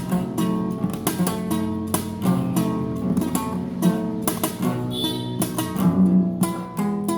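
Solo classical guitar playing fast repeated plucked notes over a moving bass line.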